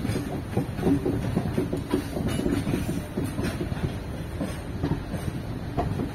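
Passenger train running on the rails: a steady rumble with irregular clattering of wheels over the track.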